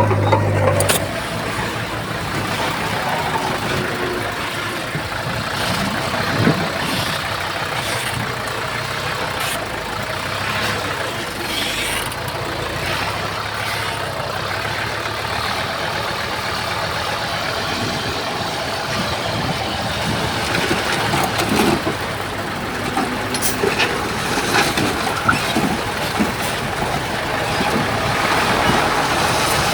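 Heavy diesel construction machinery running, from the bulldozer and dump trucks, with occasional short knocks and clanks.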